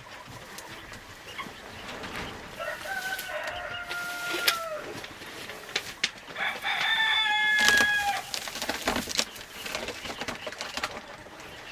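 Roosters crowing twice, each crow about two seconds long with a long held note; the second crow is higher and louder. Scattered short clicks and rustles sound around the crows.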